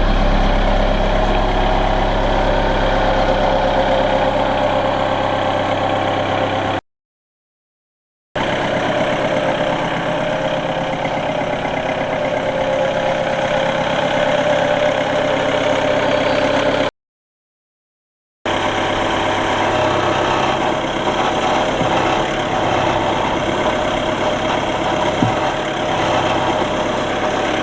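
Linde H40D forklift's Volkswagen diesel engine running steadily, in three stretches broken by two short silent gaps.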